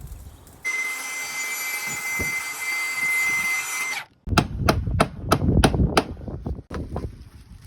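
A power tool runs steadily with a high whine for about three seconds, then stops. It is followed by a quick series of sharp knocks, about three a second, typical of hammering trim in place.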